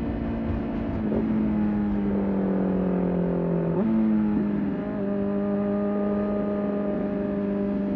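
Motorcycle engine running at moderate revs on a ride. The pitch dips about a second in and sags slowly, then jumps up sharply a little before halfway, as at a gear change, and holds steady after that.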